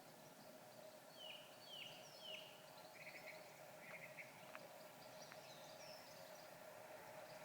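Faint outdoor birdsong: several short chirps that slide down in pitch in the first few seconds, then a couple of quick trills and some higher notes, over a faint steady hum.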